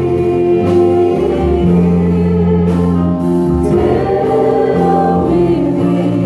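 Gospel music: voices singing over an instrumental backing, with held notes.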